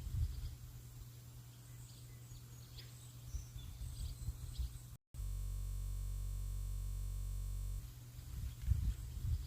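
Birds chirping faintly over an irregular low rumble of outdoor ambience. About halfway through the sound cuts out for an instant and a flat, steady electronic hum takes over for a couple of seconds, then the rumbling ambience returns.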